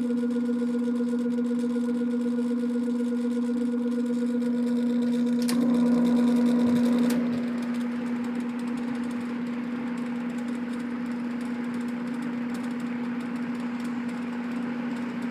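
Early-1970s Air King box fan's electric motor humming as it starts, with a switch click about five and a half seconds in and another about a second and a half later, after which a steady rush of air from the blades joins the hum. The motor is slow to get up to speed on low, which the owner puts down to a weak startup winding, so he kicks it up to high to get it past startup.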